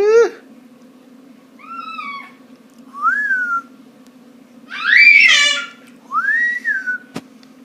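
A pet's high-pitched whining calls: a string of separate rising-and-falling whines, five in all, the loudest about five seconds in. A sharp click near the end.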